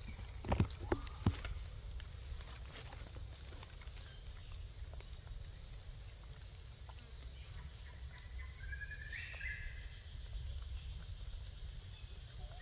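Outdoor ambience with a steady low rumble, a few sharp knocks shortly after the start, faint high chirps now and then, and a short wavering call about nine seconds in.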